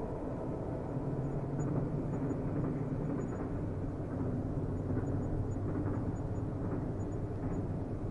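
Steady low rumble of a distant train rolling along the track.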